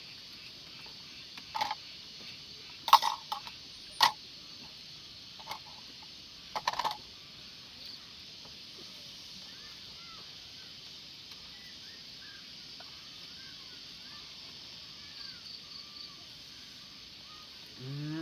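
Steady chorus of night insects, with a few sharp clicks and knocks in the first seven seconds and faint short chirps later on.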